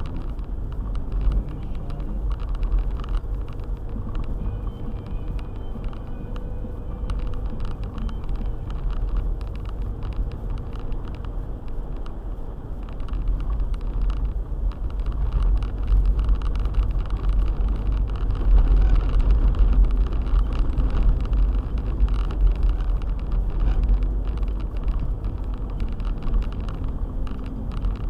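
Four-wheel-drive car driving, heard from inside the cabin: a steady low rumble of engine and tyres that grows louder past the middle.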